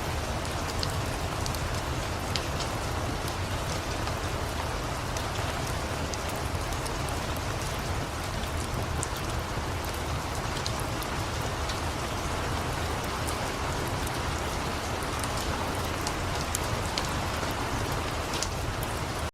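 Steady rain falling, with scattered sharp ticks and a low rumble under it.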